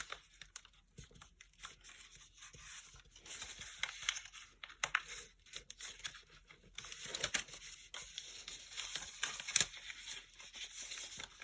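Paper crinkling and rustling as a folded origami model is handled, turned over and creased, in short irregular scratchy strokes that grow busier about seven seconds in.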